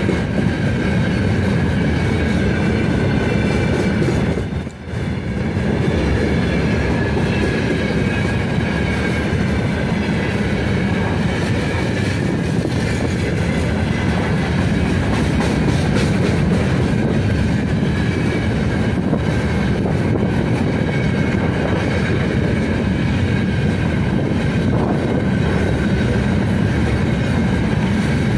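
Long freight train of open gondola wagons rolling past close by: a steady loud rumble of steel wheels on the rails with the rhythmic clickety-clack of the wheel sets, and a thin high ringing tone above it. The noise drops briefly about five seconds in, then carries on.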